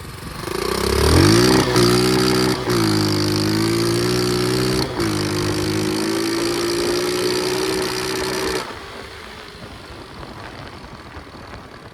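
Pit bike engine pulled hard under full throttle with a lone rider. It revs up quickly in the first second, holds high with three brief dips, then drops away suddenly when the throttle closes about eight and a half seconds in.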